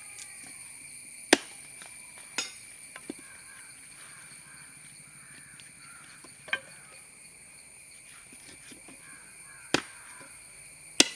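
Sharp, irregular strikes of a blade chopping thin sticks to length, about six in all, over the steady high drone of cicadas.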